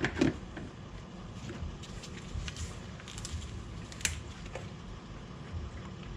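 A few light clicks and taps over a low steady hum as a quart bottle of motor oil is handled and poured into the engine's oil filler.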